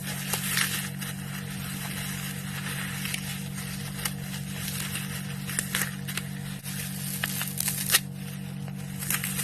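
Dry floral foam being crushed, a dense run of crunching and crackling with small sharp snaps, the loudest snap a little before the end. A steady low hum lies under it.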